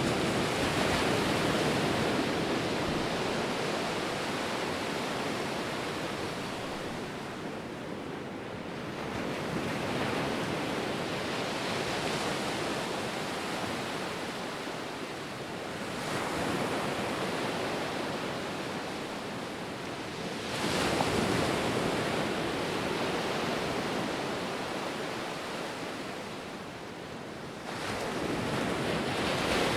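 Ocean surf: a steady rushing hiss of waves breaking and washing in. It swells and eases every several seconds, with one sharper surge about two-thirds of the way through.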